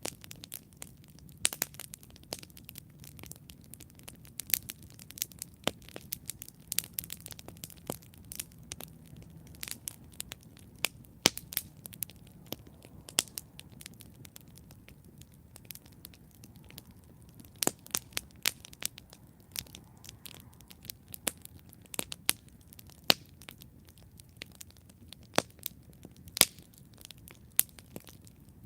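Wood campfire burning, with sharp irregular pops and crackles over a soft low rumble of flame.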